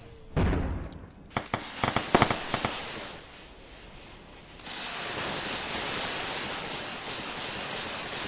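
Fireworks going off: a bang just after the start, then a quick run of sharp firecracker cracks, and from about the middle a steady hiss.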